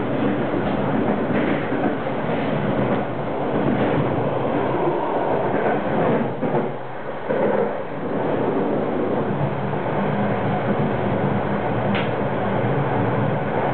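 A passenger train running over the rails, heard from inside: a steady rumble of wheels on track. It goes briefly quieter a little past halfway, and there is a single sharp click about twelve seconds in.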